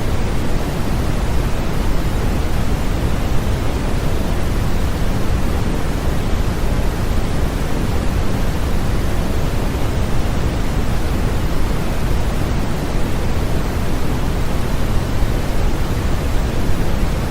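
Steady, unbroken sleep-aid noise that stays the same throughout. It is fuller and deeper in the low end than true white noise, a soft rushing hiss of the pink-noise kind.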